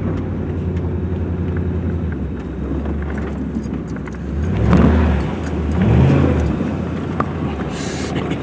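Truck engine running with a newly fitted K&N cold air intake, revved up twice in quick succession about halfway through, each rev rising in pitch and falling back.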